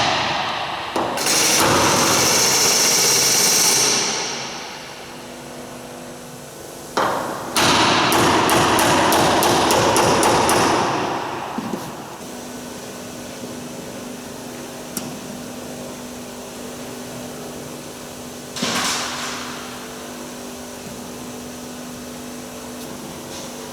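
A power tool runs in two long bursts of about three seconds each, then a short burst near the end, working old screws loose from the wing structure.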